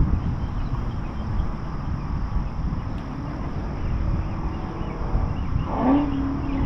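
Wind rumbling on the microphone, with a short tone about six seconds in that rises and then holds steady.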